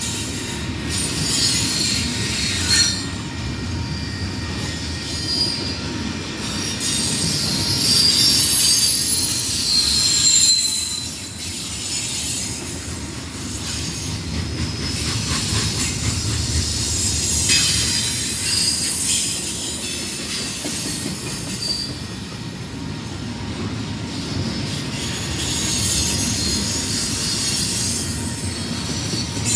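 Freight train rolling past, a constant rumble of cars on the rails with high-pitched wheel squeal that comes and goes several times, and some clicking over rail joints.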